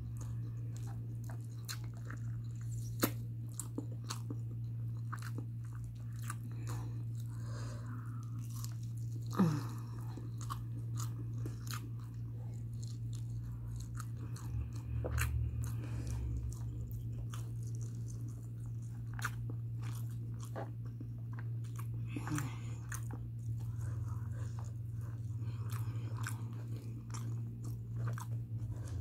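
A person chewing mouthfuls of mutton biryani, with many short wet mouth clicks scattered through the chewing, over a steady low hum.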